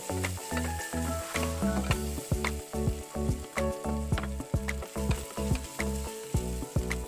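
Diced Spam sizzling in hot oil in a stainless steel wok while a wooden spatula stirs it, with scattered scraping clicks. Background music plays under it.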